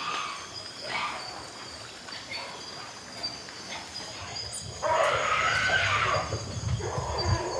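Recorded calls of a peccary herd played back: rough grunting calls about once a second, then a louder, longer stretch of calls from about five seconds in. Insects sing steadily behind them.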